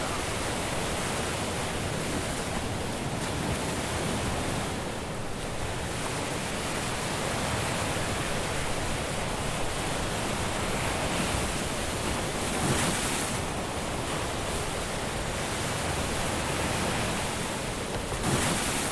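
Caribbean surf washing onto a beach: a steady rush of breaking waves, with a brief surge about 13 s in and another near the end.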